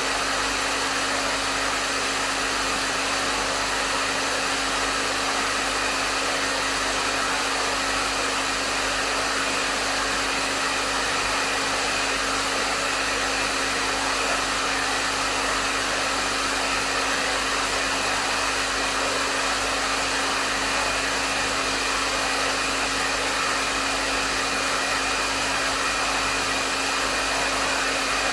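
Hair dryer running steadily on a medium setting: an even rush of blown air with a constant motor hum underneath.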